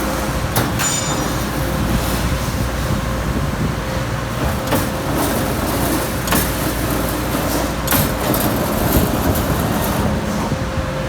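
33-ton Amada Pega 357 CNC turret punch running, with a steady hum and a faint whine. Occasional sharp knocks come one to two seconds apart.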